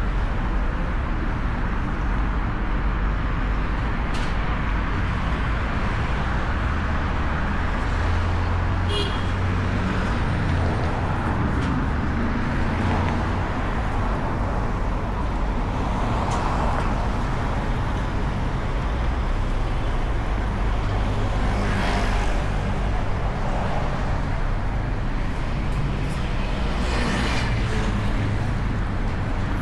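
City street traffic: a steady rumble of cars and engines going by, with a few brief clicks scattered through it.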